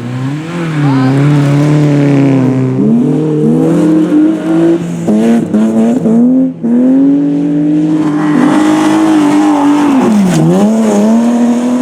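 Rally car engine driven hard at high revs, the pitch climbing and falling back with a run of quick gear changes in the middle, then holding high before a sharp drop and climb again near the end.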